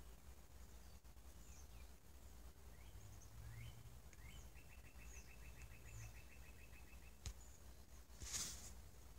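Faint outdoor songbird calls: scattered short chirps and, about halfway through, a rapid even trill of roughly eight notes a second lasting about two and a half seconds. Near the end come a sharp click and a short rustle.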